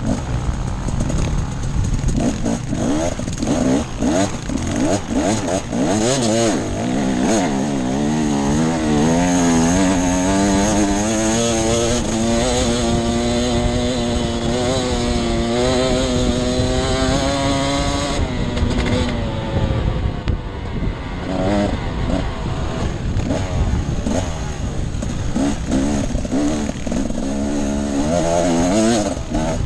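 Enduro motorcycle engine pulling through off-road riding, the revs rising and falling with the throttle. About ten seconds in it holds a fairly steady high pitch for several seconds, then drops away and picks up again near the end.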